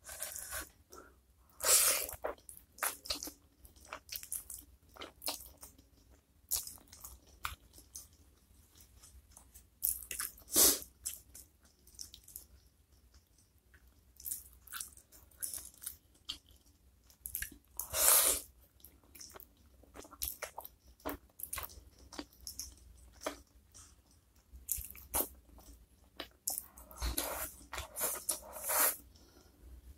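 Close-miked chewing and biting of soft-cooked chicken feet and flat noodles in spicy sauce: many small wet clicks and crunches of eating. A few louder, longer wet mouth noises come about two, eleven and eighteen seconds in, and again near the end.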